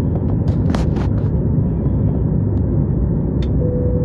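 Airplane cabin noise: a steady low rumble, with a few sharp clicks about a second in and another near the end, followed by a brief steady tone.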